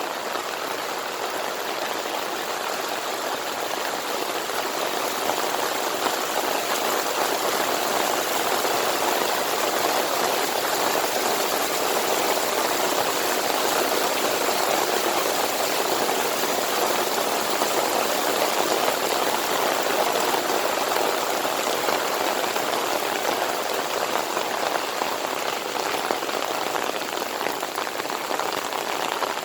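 Heavy monsoon rain pouring steadily: a dense, even hiss of drops that swells a little about five seconds in.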